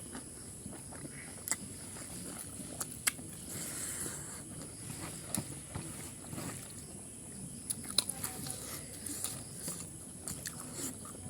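Close-up eating sounds of pork curry: chewing and mouth smacks broken by scattered sharp clicks and taps, the sharpest about a second and a half, three and eight seconds in. A faint steady high-pitched whine sits underneath.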